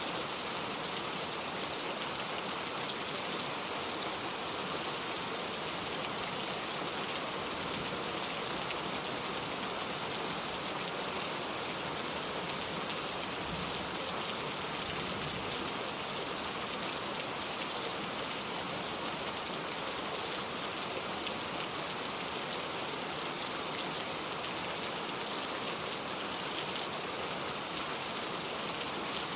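Steady rain falling, an even hiss of countless small drops that holds at one strength with no pauses or surges.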